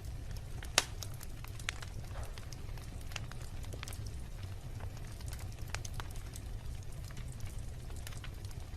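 Wood bonfire burning with irregular quick crackles and pops over a low steady rumble. One loud sharp pop comes about a second in, and a smaller one shortly after.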